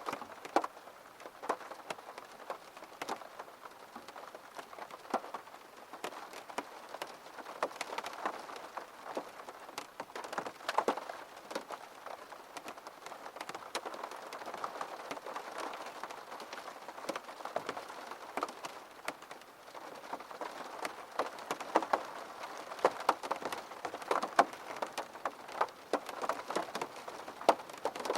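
Steady gentle rain falling on a surface, with many individual drops ticking sharply and irregularly over the soft patter.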